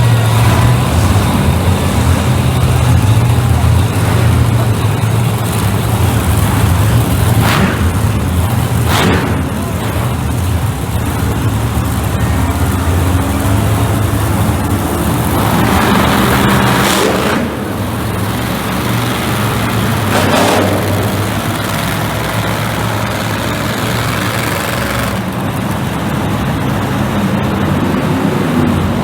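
Monster truck engines running loudly, a steady low drone with several brief surges of revving.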